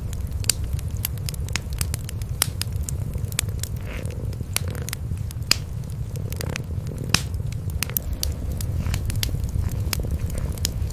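Cats purring, a continuous low rumble, under a wood fire crackling with frequent sharp, irregular pops.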